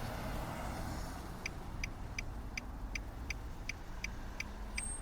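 A steady low rumble with a fast, even ticking, about three ticks a second, that starts about a second and a half in; a thin high tone comes in near the end.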